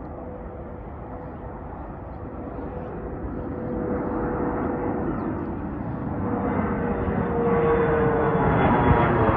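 Jet engines of a United Express regional jet spooling up for takeoff: a steady roar that grows steadily louder, with a whine that edges up in pitch and more whining tones joining in the second half.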